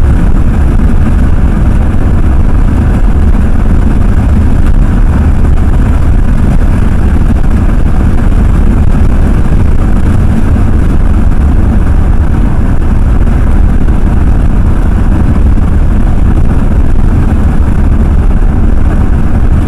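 Ford F-350 pickup being driven at road speed, heard from inside the cab: a steady low rumble of engine and road noise.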